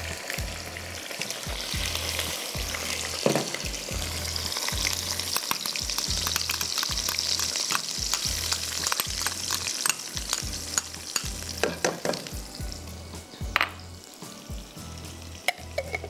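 Butter and oil sizzling in a pan as ginger-garlic paste is tipped in and stirred, with scattered clicks. The sizzle swells through the middle and eases off in the last few seconds.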